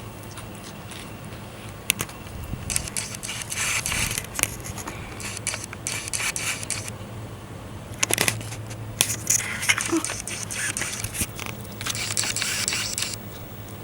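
Argentine black and white tegu eating a raw egg off a plate: repeated bursts of scraping and crackling, each a second or two long, with a few sharp clicks.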